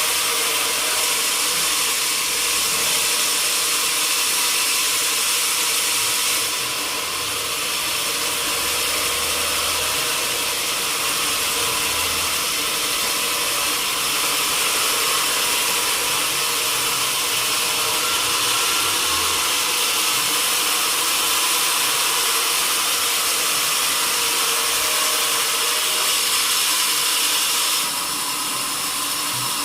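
Sawmill saw running steadily with a loud, even hiss; the sound drops a little about six seconds in and again near the end.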